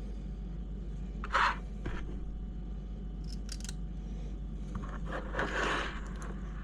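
Hand work on small parts of an RC crawler's skid plate and its screws: a short scrape about a second in, a few light clicks in the middle, and a longer, softer scrape near the end, over a low steady hum.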